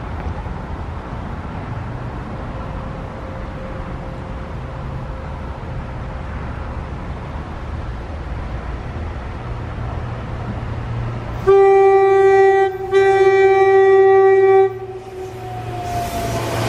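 SEPTA Silverliner IV electric commuter train approaching with a steady low rumble, then sounding its horn in two loud blasts, the first about a second long and the second a little longer, starting about eleven and a half seconds in. As the cars pass near the end, a falling whine and growing rail noise.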